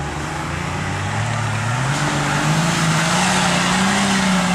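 Suzuki 4x4's engine revving under load on a steep dirt climb, its pitch rising steadily and getting louder, with a rushing hiss building from about halfway in.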